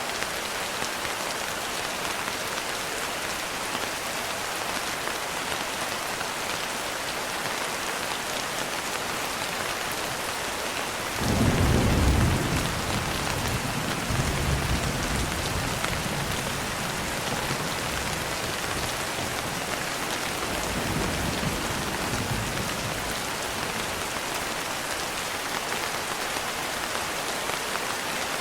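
Steady rain with a clap of thunder about eleven seconds in, loudest at first, then rumbling on more softly for about ten more seconds.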